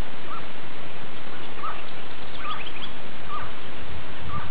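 Short bird calls repeating about once a second, with a quick run of higher, rising chirps near the middle, over a steady hiss.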